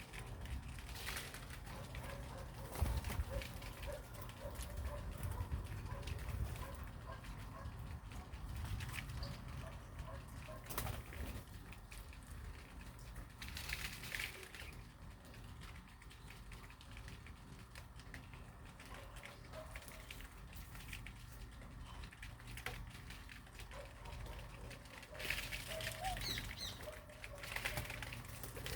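Birds moving about, with wing flaps, rustling, scattered taps and faint short calls, over a steady low rumble. The rustling and high chirps pick up near the end.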